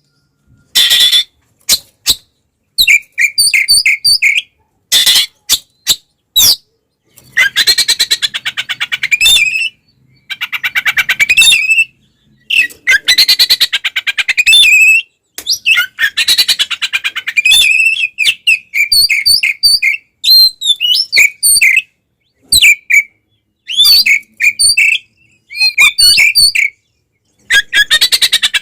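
Oriental magpie-robin (kacer) singing loudly in agitated fighting song: long harsh rattling buzzes of a second or more alternate with short whistled phrases, each cut off by a sudden silence.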